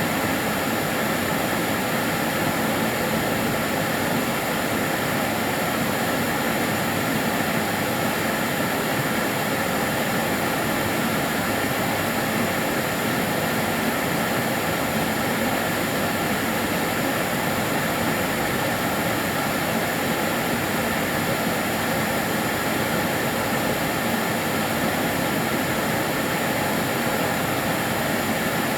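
Karcher DS 6 Premium water-filter vacuum cleaner running continuously: a steady, even motor and airflow whoosh with a faint constant whine, with no change in pitch or level.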